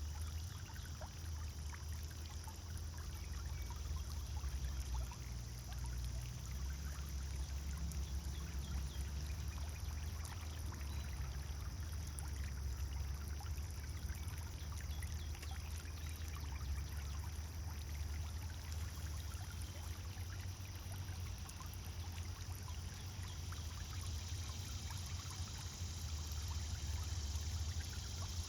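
Pond fountain: water splashing and trickling steadily into the pond, over a steady low hum.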